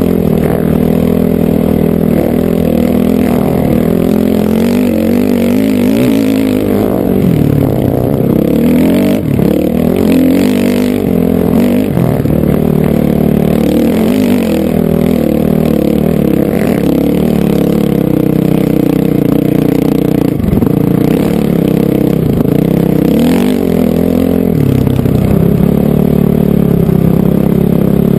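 Honda CRF450R single-cylinder four-stroke dirt bike engine under way, its pitch rising and falling again and again as the throttle opens and closes.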